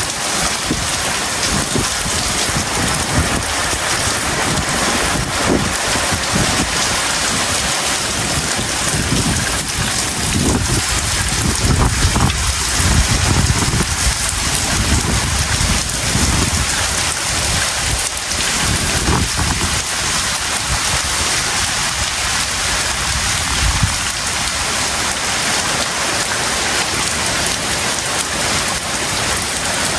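Heavy tropical rain pouring down hard and steadily, with a low rumble that swells and fades about a third of the way in and again shortly after the middle.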